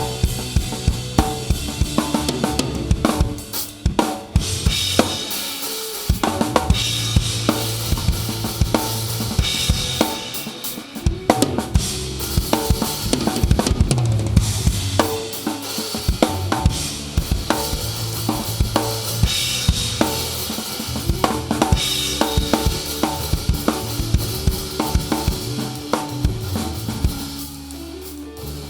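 Live rock band playing with the drum kit loudest, picked up close: regular kick and snare hits and washing cymbals over sustained bass and guitar notes. The playing eases off near the end.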